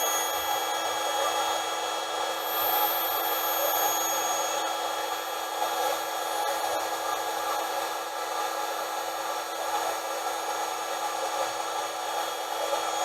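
Electric car air pump, powered from the vehicle's 12-volt accessory socket, running with a steady hum as it inflates a double air mattress.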